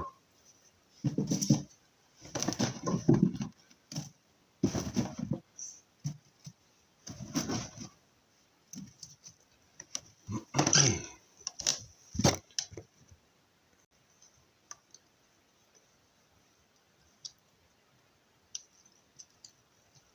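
Handling noises while setting a fireplace: a run of irregular knocks, clatters and rustles from wood and kindling being moved and laid, dying down after about thirteen seconds to faint scattered ticks.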